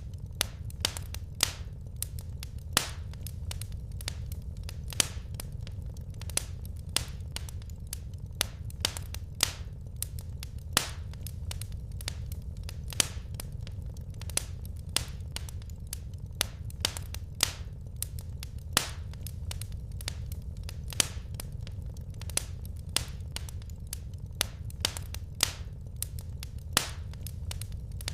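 Wood fire crackling: irregular sharp pops and snaps, a few a second and some much louder than others, over a low steady rumble of the flames.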